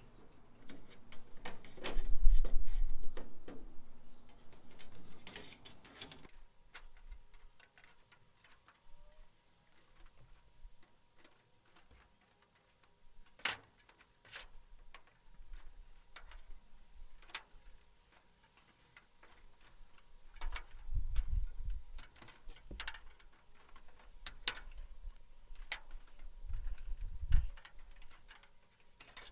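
Hand crimping pliers squeezing the flange of a thin aluminium angle, a series of sharp clicks and light metallic clinks at irregular intervals, with a few louder handling bumps. The edge is being crimped bit by bit so the angle curves to follow the wing root.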